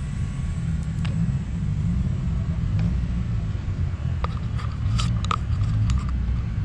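Car engine idling with a low, steady rumble, with a few short clicks and knocks about four to six seconds in.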